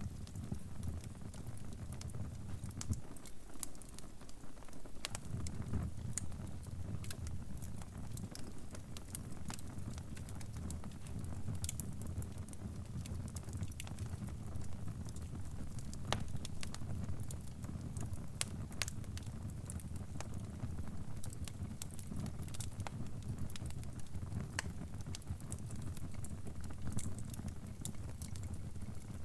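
Crackling fire: a steady low rumble of burning with frequent sharp pops and snaps scattered throughout. The rumble drops away for a couple of seconds about three seconds in.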